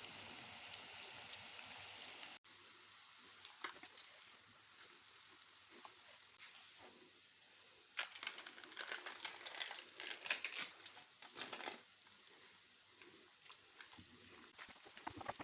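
Kitchen handling of seasoned pork: a steady faint hiss, then bursts of crackly crunching and rustling between about 8 and 12 seconds in.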